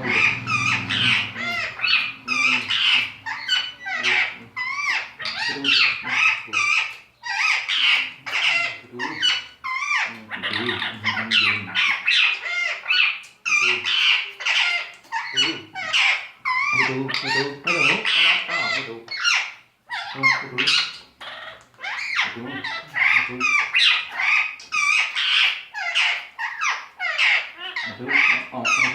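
Pet parrot chattering and squawking almost without pause, a stream of high, rapidly warbling calls mixed with speech-like mimicry.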